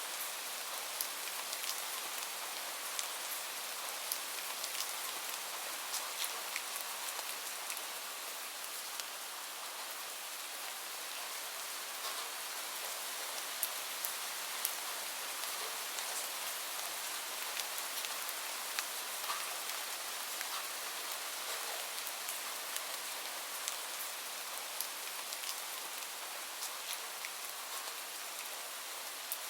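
Steady rain: an even hiss with many individual drops ticking sharply on a surface.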